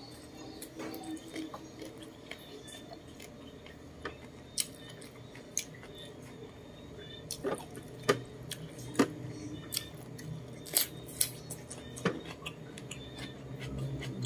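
Close-up eating sounds: chewing roast chicken and cucumber with wet mouth clicks and lip smacks, scattered irregularly. Several louder sharp clicks come in the second half.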